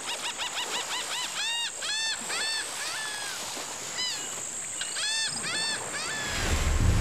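A bird calling in a long series of short arched chirps, quick at first and then slower and more spaced out, over a steady high insect drone. Near the end a low rush of water begins.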